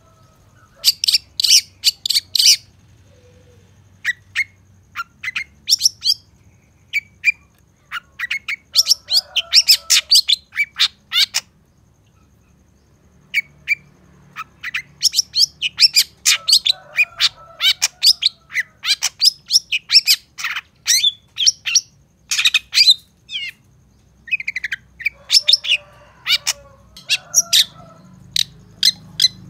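Long-tailed shrike (cendet) singing a tutor song: rapid runs of short, sharp, high chirps and scratchy notes, packed with imitations of other birds, pausing briefly a few times.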